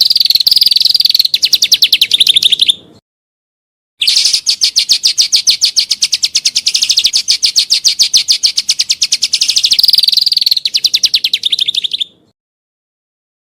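Songbird song of rapid, high-pitched trills made of sharp repeated notes, about ten a second: a short burst, then after a few seconds of dead silence a longer burst lasting about eight seconds.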